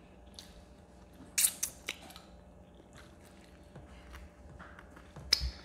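Close-up eating sounds of people chewing and biting fried chicken, with scattered sharp mouth clicks, the loudest about a second and a half in and another near the end.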